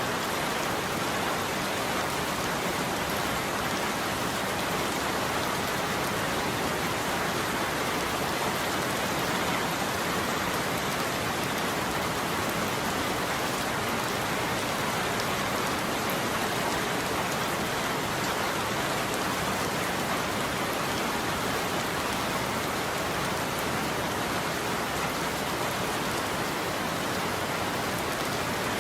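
Steady heavy rain falling on a roof, a dense even patter of drops.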